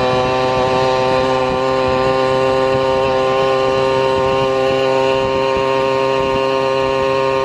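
Vehicle engine running at constant revs while cruising, a steady buzzing note that holds one pitch throughout.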